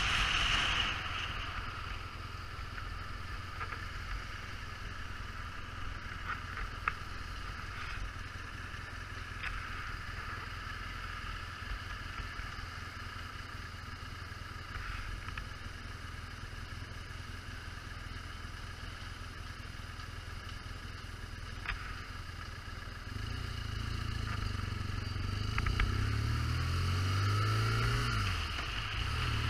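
Motorcycle engine running steadily with a few faint ticks, then louder from about three-quarters of the way through, its pitch rising and falling as it is revved.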